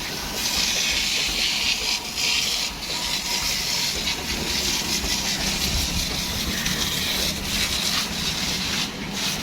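High-pressure water jet spraying against a truck, a steady hiss that wavers a little in strength, over a low running rumble.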